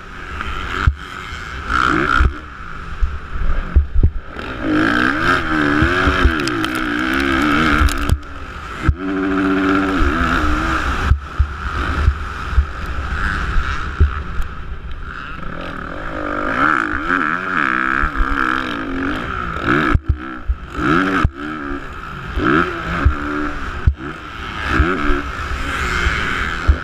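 Motocross dirt-bike engine revving up and dropping back over and over, as it is ridden around the track. Sharp knocks and clatter are heard throughout.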